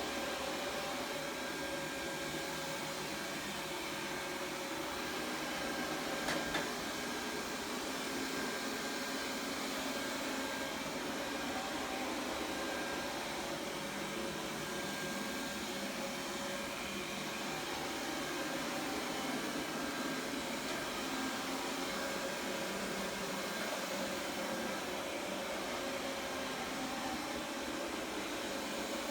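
Xiaomi robot vacuum cleaner running with a steady whirring hiss and faint steady tones. There is one short knock about six seconds in.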